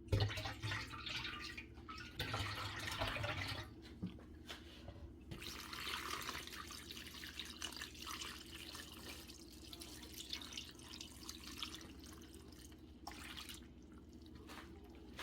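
Water running and splashing in a kitchen, loudest for several seconds in the middle, over a steady low hum.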